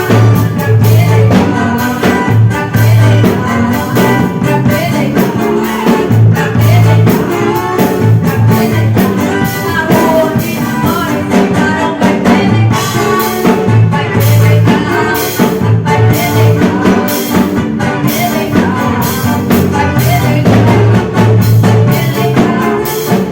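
A band playing through a sound check, with a drum kit and a repeating bass line carrying the music.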